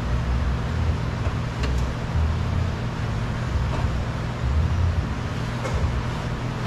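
Steady low background rumble with a constant hum, like road traffic, with a few faint light knocks scattered through it.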